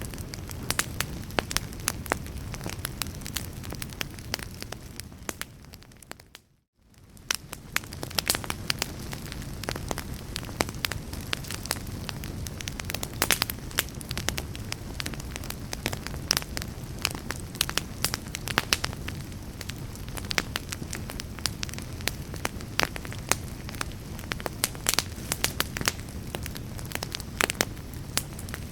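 Wood fire crackling with frequent sharp pops over a steady low rumble. About five seconds in the sound fades out to a moment of silence, then fades back in, which is the seam of a looped recording.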